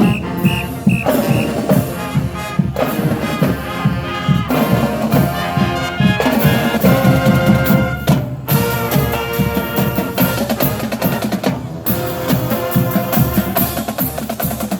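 Marching band playing, with brass and a drumline together over a steady drum beat.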